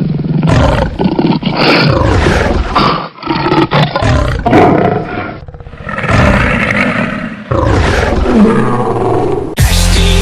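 Cats calling loudly in a run of short spliced clips, the sound changing abruptly every couple of seconds. Music with a heavy beat starts near the end.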